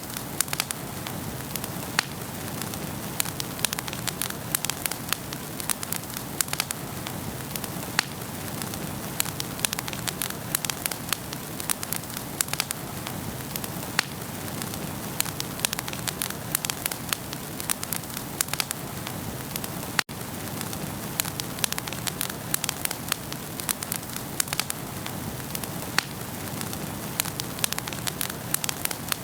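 Wood fire burning in a fireplace: frequent sharp crackles and pops over a steady hiss, with a brief dropout about twenty seconds in.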